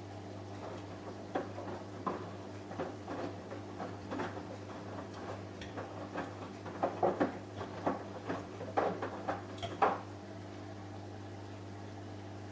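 Samsung Eco Bubble washing machine running, a steady hum under a series of irregular knocks and clicks from about a second and a half in until about ten seconds in, loudest in two clusters near the end.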